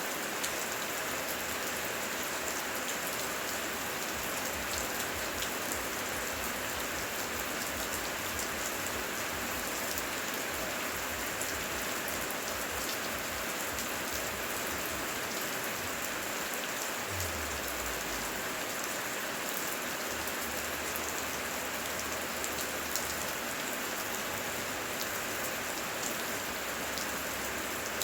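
Heavy rain falling steadily: an even hiss of countless drops, with a faint low rumble beneath it.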